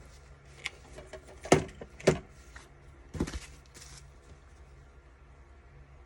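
A handful of sharp clicks and taps as craft supplies are picked up and set down on a work table, with a short rustle near the middle.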